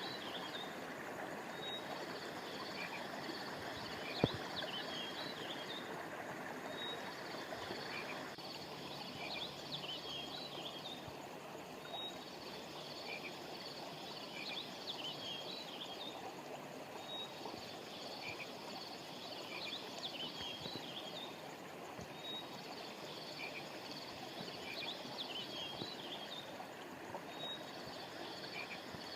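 Stream water running steadily, with small creatures chirping high over it in clusters that repeat about every five seconds. One sharp click sounds about four seconds in.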